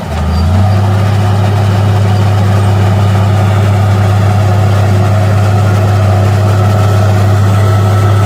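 Heavy diesel engine of earthmoving machinery running steadily at constant speed, a strong low engine tone that holds unchanged after a brief dip in level at the very start.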